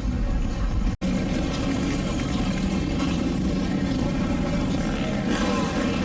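Car engine running in a steady, dense mix of vehicle noise, broken by a brief total dropout about a second in where the audio cuts.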